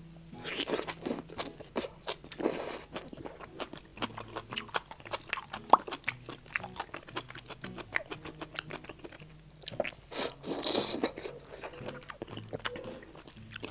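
Close-miked chewing and crunching of fried skewer food: first a tender fried scallion, then a battered fried pineapple ring. A steady run of small crisp crunches, with a few louder bites about a second in, at two and a half seconds, and around ten seconds.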